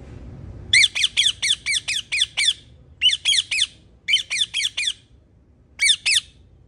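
Pet parrot squawking in a rapid series of short calls, each dropping in pitch, about four or five a second, in four bursts: a long run of about eight, two shorter runs, then a last couple of calls near the end.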